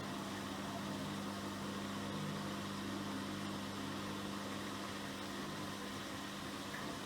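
Miele Professional PW6065 Plus washing machine running, a steady motor hum over an even mechanical whir.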